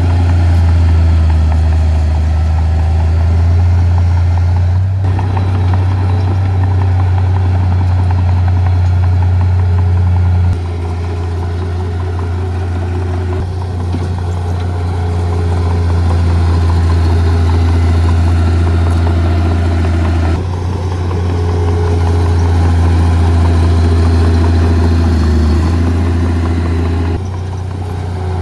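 Heavy earth-moving machinery running: the steady, deep drone of large diesel engines. The sound changes abruptly several times.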